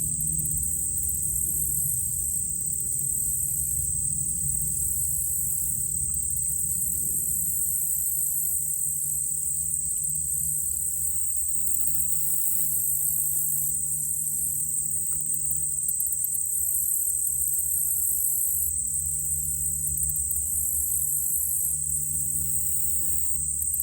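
Dense chorus of crickets and other night insects: a steady, high-pitched, finely pulsing trill. Underneath runs a low steady drone, with steady hum tones coming in about halfway through, typical of a distant small propeller plane.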